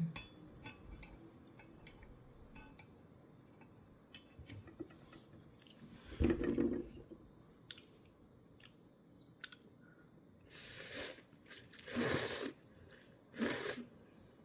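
Person eating instant ramen: soft chewing and small mouth clicks, with a loud noodle slurp about six seconds in and three more slurps near the end.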